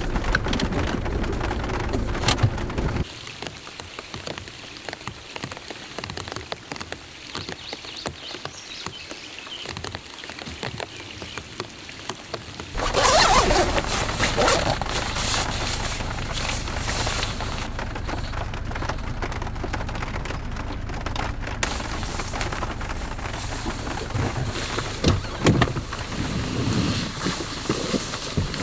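Rain falling steadily, an even hiss that turns quieter about three seconds in and abruptly heavier and louder about thirteen seconds in.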